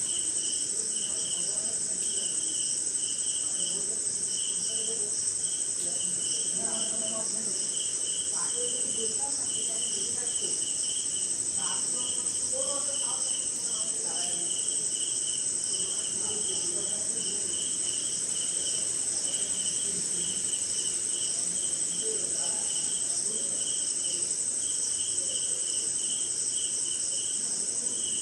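Night insect chorus: a steady, high-pitched continuous trill over evenly repeating cricket chirps, with faint, scattered lower calls beneath.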